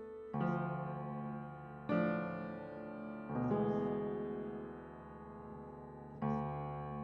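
Slow piano music: full chords struck four times, a second and a half to three seconds apart, each left to ring and fade.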